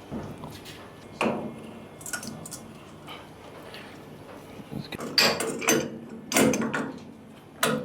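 Metal tools and pipe fittings being handled during a boiler pressure relief valve replacement: short clanks and scrapes, one about a second in, a cluster in the second half and a last one near the end.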